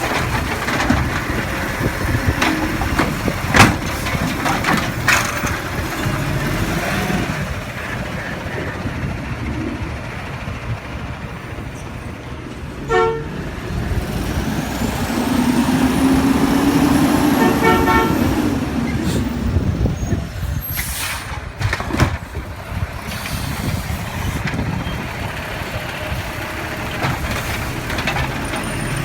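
Sterling Condor garbage truck's diesel engine running, revving up for a few seconds in the middle. Short horn toots come twice near the middle, and a brief hiss follows a few seconds later.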